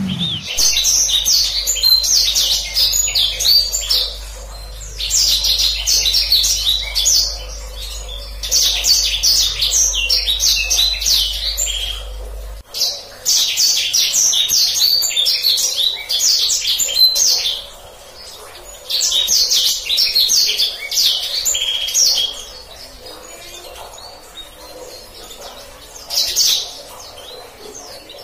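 A blacksang songbird singing in repeated bursts of fast, rolling high trills, each a few seconds long, with short pauses between.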